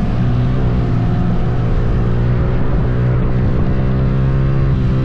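Motorcycle engine running at a steady cruising speed while riding, its pitch drifting only slightly.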